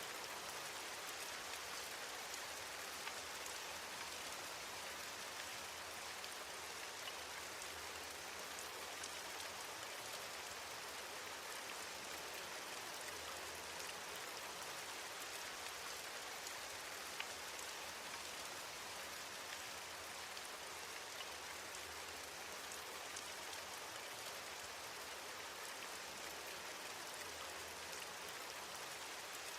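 Steady rain, with the patter of many individual drops.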